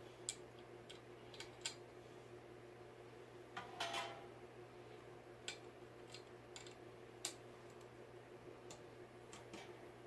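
Faint, scattered light clicks and taps, with one brief ringing metallic clink about four seconds in, from small hardware and tools being handled while assembling a ceiling fan.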